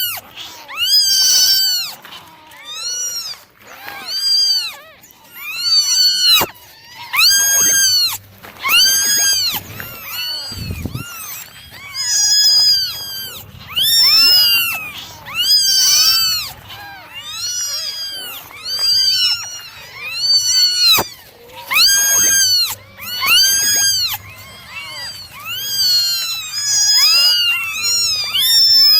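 Kittens meowing over and over, high-pitched calls that each rise and fall in pitch, coming about once a second.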